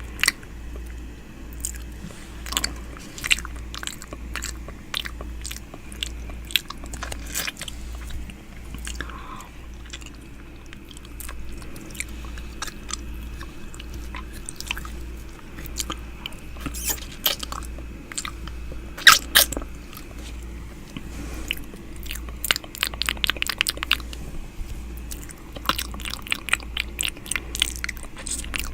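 ASMR 'ear eating' mouth sounds close to the microphone: clicks and smacks, scattered at first and then in quick runs toward the end, with a loud pair a little after the middle. A low steady hum runs underneath.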